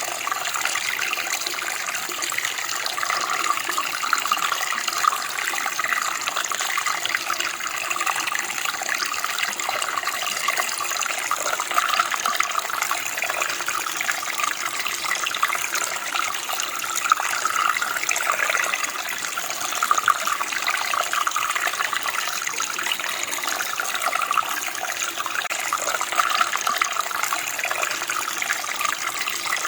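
Running water from a small stream flowing and splashing, a steady babble with small rises and falls.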